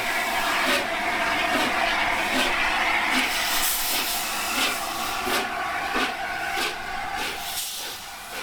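Steam locomotive, the three-cylinder LNER A4 Pacific Sir Nigel Gresley, pulling away: a string of exhaust beats over a steady steam hiss. The beats come closer together as it gathers speed, and the sound fades towards the end.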